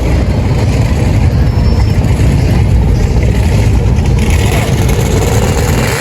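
Car engine running close by with a loud, steady low rumble.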